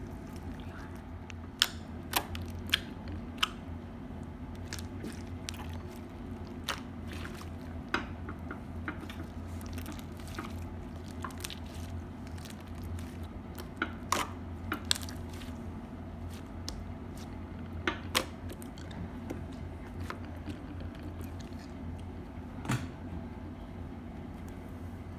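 Crunchy slime being squeezed and kneaded by hand, giving irregular sharp crackles and pops over a steady low hum.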